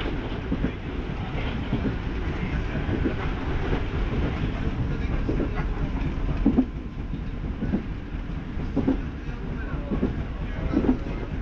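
A passenger train running on jointed track, heard from inside the car: a steady rumble, with the wheels clacking over rail joints about once a second.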